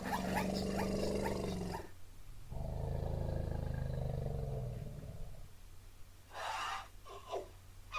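Recorded elephant calls: two long, low, drawn-out calls, the second a little over two seconds long, followed near the end by a few short, softer sounds.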